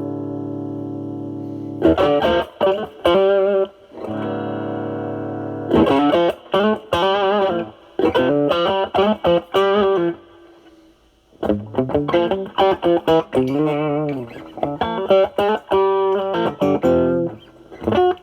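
Semi-hollow electric guitar played through a NOBELS ODR-1 overdrive pedal with the bass cut mod, drive set around 10 to 11, into a Marshall Valvestate amp's clean channel. A held chord rings, then choppy chords and single-note lines with string bends follow, with a short pause about ten seconds in.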